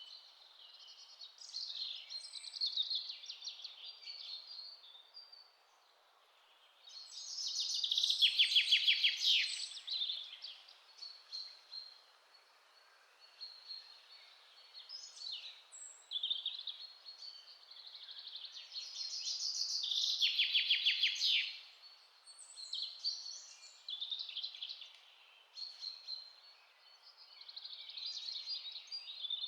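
Songbirds singing in a forest: overlapping chirps and warbled phrases, with a louder song of rapid trilled notes twice, about eight and twenty seconds in.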